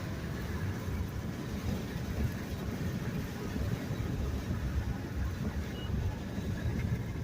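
Car driving at steady speed: a low, even rumble of road and engine noise.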